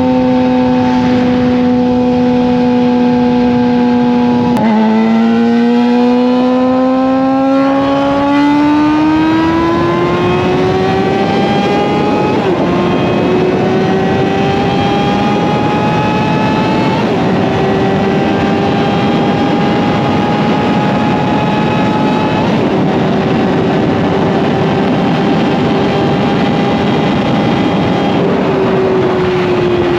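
Suzuki GSX-R750 inline-four with an M4 slip-on exhaust under way on the highway. It cruises at steady revs, then about four seconds in the revs drop suddenly and climb hard, with quick dips at later gear changes, and it eases off near the end. Heavy wind rush runs underneath.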